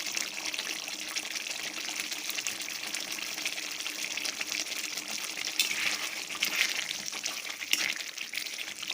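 Thick chicken and potato gravy sizzling and bubbling in the pan, a steady crackling hiss with a few louder pops in the second half.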